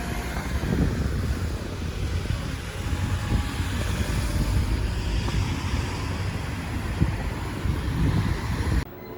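Wind buffeting the microphone outdoors, a gusty low rumble that cuts off abruptly near the end.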